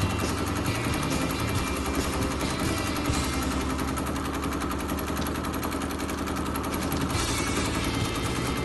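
Bernina Q20 sit-down longarm quilting machine stitching at speed during free-motion quilting: a rapid, steady chatter of the needle going up and down.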